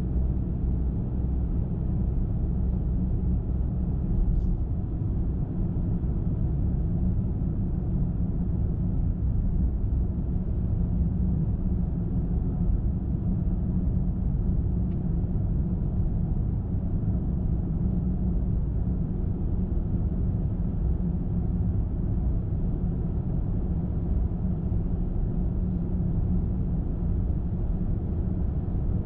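Steady low rumble of a car driving, with tyre and road noise and engine hum and no change in pace. A faint click sounds about four seconds in.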